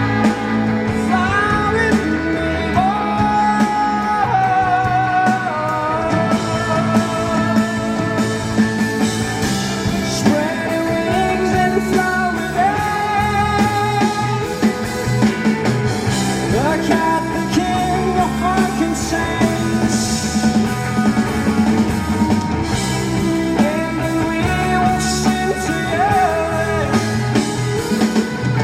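Rock band playing live, with singing carried over guitar and a steady beat.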